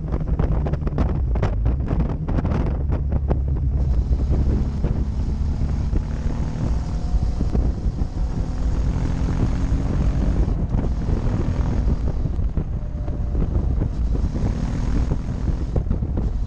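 Motorcycle engine running under way, its pitch rising gently through the middle, with wind buffeting the camera's microphone, heaviest in the first few seconds.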